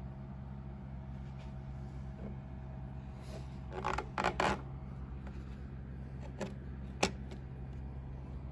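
Handling clicks and rustles of a plastic wall thermostat controller, bunched about four seconds in, with one sharp click near the end, over a steady low hum.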